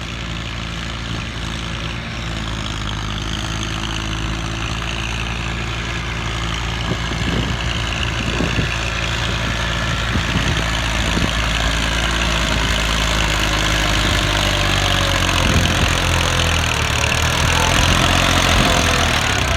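Massey Ferguson 245 tractor's diesel engine running steadily, growing gradually louder.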